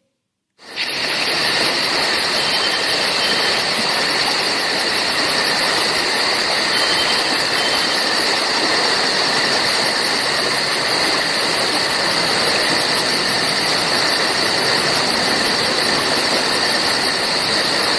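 Forest nature ambience: a loud, steady, dense chorus of insects with a fast, even high pulsing, and a few faint bird chirps. It starts suddenly and runs unbroken.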